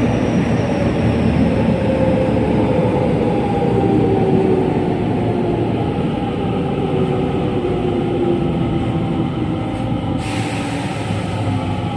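JR West 207 series electric train heard from on board, its original, unmodified traction motors running with wheel-on-rail rumble. The motor whine falls slowly in pitch as the train slows. A hiss joins about ten seconds in.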